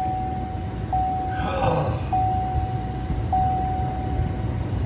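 A pickup truck's dashboard warning chime sounding a steady tone over and over, a new one about every 1.2 seconds, stopping just before the end, over a low rumble in the cab. A short rustle is heard about a second and a half in.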